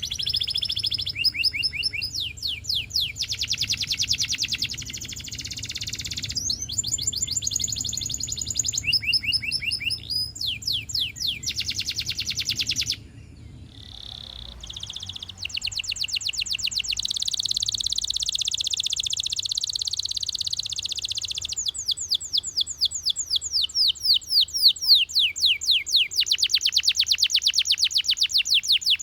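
Male canary singing a long continuous song of rapid repeated trills and rolling phrases, changing tour every few seconds, with a brief lull about halfway through. A faint low hum runs underneath.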